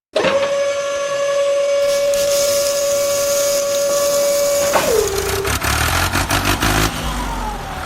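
A steady whistle tone, held about five seconds and sliding down in pitch as it stops, followed by a low rumble.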